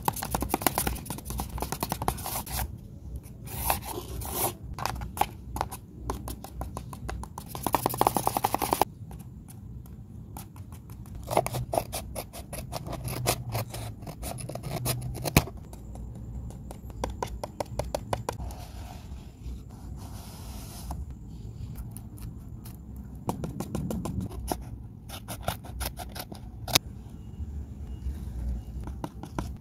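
Paper craft pieces being handled: paper rustling and scraping, with many short clicks and taps and a louder rustle about eight seconds in.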